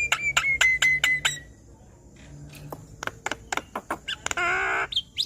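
Javan myna calling: a fast run of sharp clicks and short falling whistled notes, then scattered clicks, and a loud harsh rasping call about four and a half seconds in.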